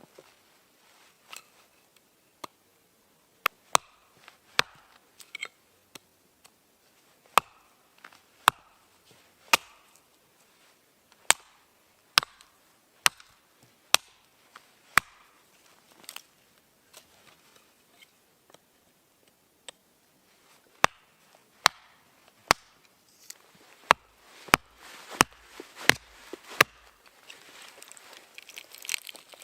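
A blade chopping into wood with sharp, separate strikes, about one a second at first and coming faster near the end.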